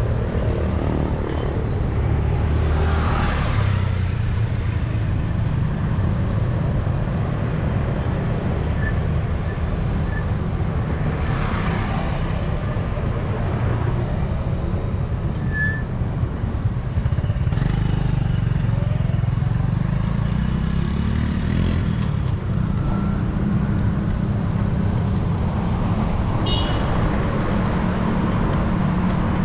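City street traffic, mostly motorbikes and cars, running steadily past a moving bicycle. Vehicles pass close by about 3 and 12 seconds in, and a short high-pitched squeak or horn sounds near the end.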